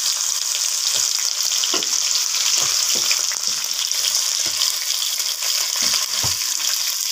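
Ginger paste frying in hot mustard oil in a kadai, a steady high sizzle, with a steel spatula scraping and knocking against the pan every second or so as it is stirred.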